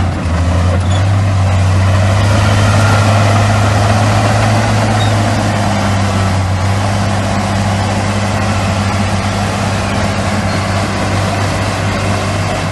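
Heavy diesel engine of earthmoving machinery running steadily, a loud low drone.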